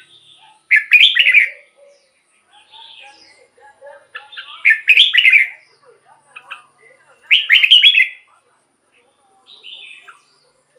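Red-whiskered bulbul singing. It gives three loud, quick warbled phrases about three seconds apart, with softer notes between them.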